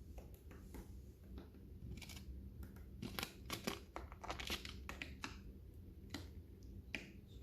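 Lovebirds eating, cracking and nibbling seeds: a string of small crunches and clicks that is thickest in the middle.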